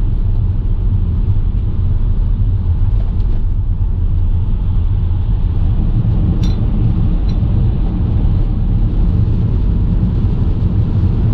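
Steady low road and engine rumble of a car being driven, with a couple of faint ticks about two-thirds of the way through.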